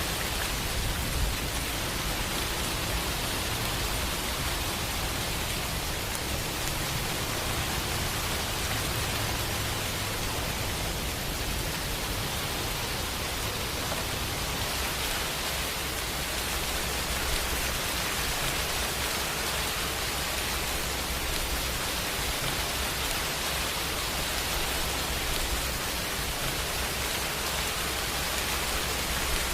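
Steady rain, a dense even hiss with a low rumble underneath.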